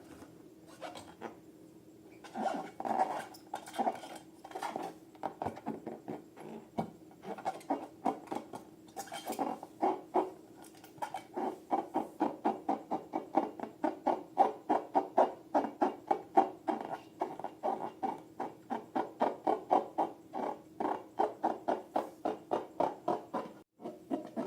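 Slime being stirred and squished, giving short wet squelching clicks. They start sparse and from about ten seconds in settle into a steady rhythm of about three to four a second, over a faint steady hum.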